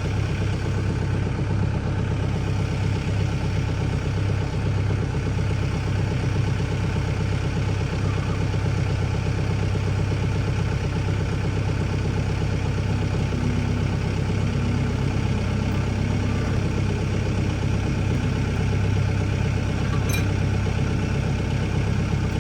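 Tractor engine running steadily at low speed while the tractor is slowly backed up.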